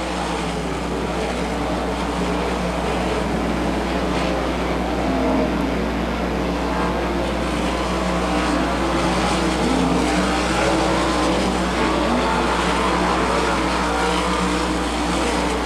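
A pack of sprint cars racing on a dirt oval, engines at full throttle, their pitches rising and falling as the cars pass and work through the turns.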